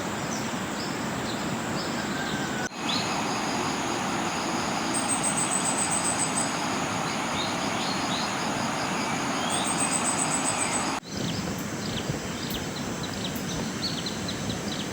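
Steady, even rush of water at a riverside campsite in rain, with scattered short high chirps and, twice, a brief high-pitched trill from wildlife. The sound drops out for an instant twice.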